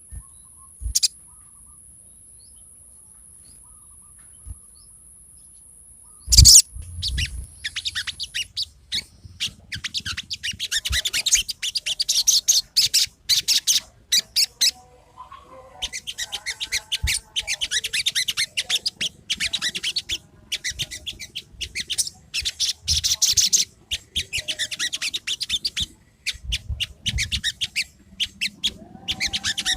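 Sogon songbird singing: fast, high-pitched chirping phrases in bursts several seconds long, with short pauses between them. The song starts about six seconds in, just after a sharp knock; before that there is only a faint, steady high whine.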